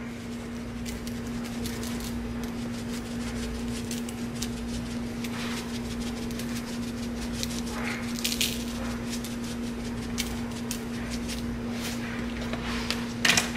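Seasoning shaken from spice shakers onto salmon fillets: scattered light ticks and patters, with a louder rattling shake about eight seconds in and again near the end, over a steady low hum.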